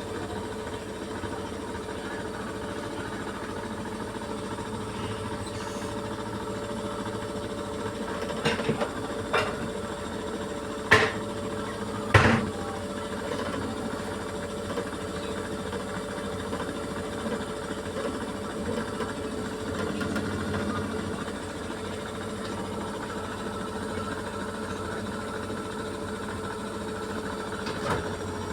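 Beko washing machine spinning at a steady speed: a continuous motor hum with a steady whine. A few loud knocks come from the machine about a third of the way through.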